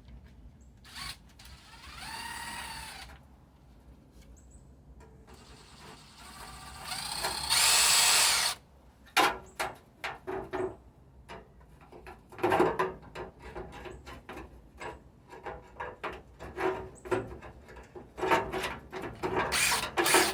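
Cordless impact driver backing out screws: a short spin that rises and falls in pitch, then a longer, louder run a few seconds later. After that come many small clicks and knocks of metal parts being handled.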